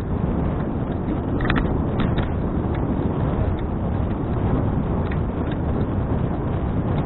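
Steady rumble of wind buffeting an action camera's microphone on a moving bicycle, with a few light clicks and ticks from about one and a half seconds in.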